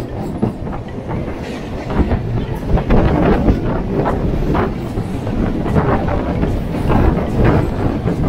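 Two suburban electric local trains passing each other at speed, their wheels rumbling and clattering over the rails. The sound gets louder about two seconds in as the oncoming train's coaches draw alongside.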